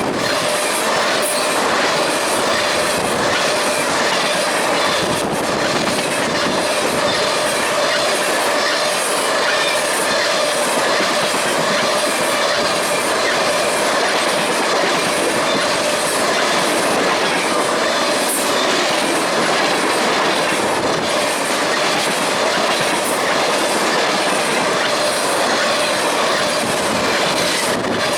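Train rolling steadily on the rails, its wheels clicking in a regular rhythm over the track with a thin steady squeal underneath.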